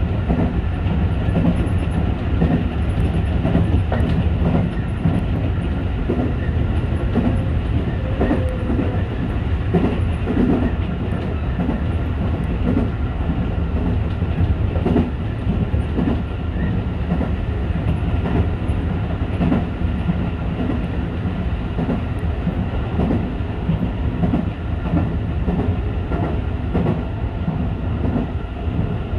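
Tobu 8000 series electric train running along the track, heard from its front end: a steady rumble with irregular clacks as the wheels pass over rail joints.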